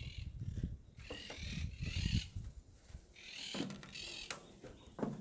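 Birds giving harsh, squawking calls several times, over irregular low thumps of footsteps and handling on a metal spiral staircase.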